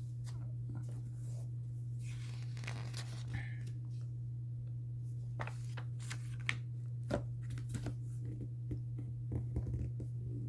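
Scattered rustling and crinkling of handled paper, with a few sharp clicks, over a steady low hum.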